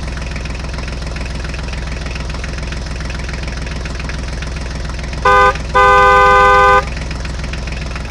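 Tractor engine running steadily, and a horn honked twice near the end: a short toot, then a longer one of about a second.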